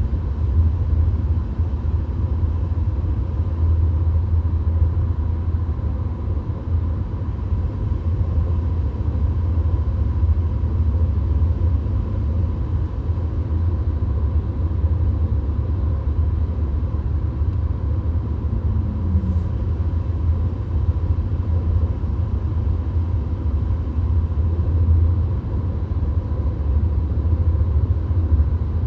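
Steady road and engine rumble inside a VW Golf's cabin cruising on the highway, deep and unbroken, with a faint steady whine above it.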